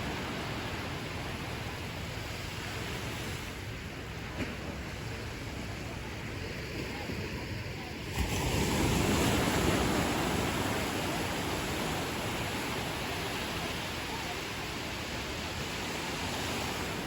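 Ocean surf on a beach: a steady wash of waves, with a wave breaking more loudly about halfway through and then easing off.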